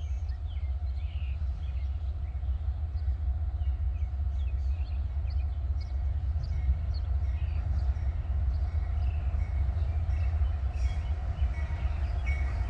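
Diesel-hauled train passing with a steady low rumble, and short faint high squeaks scattered over it.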